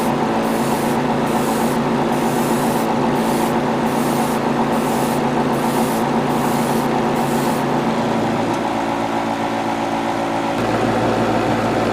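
Small airbrush compressor motor humming steadily, with short hissing spurts of airbrush spray about twice a second for the first seven seconds or so. The hum shifts in pitch about eight seconds in.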